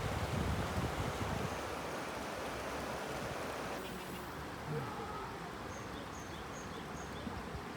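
Outdoor riverside ambience: a steady rush of wind and flowing water, with wind buffeting the microphone in the first second or so. A small bird gives four short, high chirps about six seconds in.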